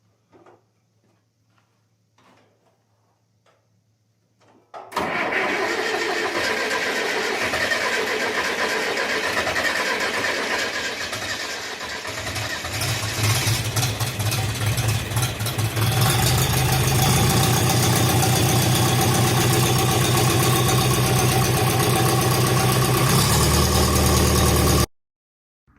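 John Deere diesel tractor engine cold-starting: it catches about five seconds in, runs unevenly for several seconds, then settles into a steady run. The sound cuts off abruptly near the end.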